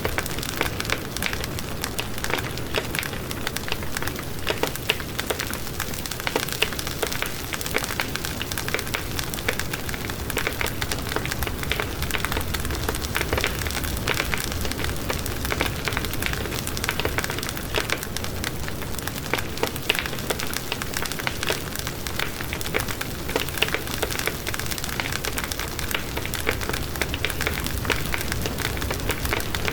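Wood fire burning in a fireplace, crackling continuously with many small, irregular pops over a low rush of flame.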